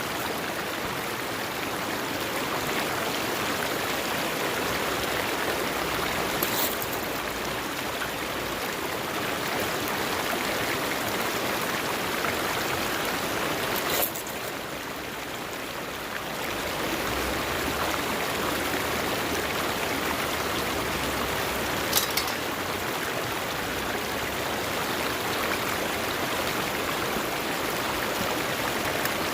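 River water rushing steadily, with a few short sharp clicks over it, about eight seconds apart.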